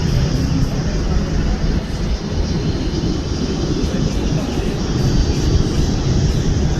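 Jet engine noise from a departing Boeing 777-200ER's twin turbofans, a steady low rumble at takeoff power.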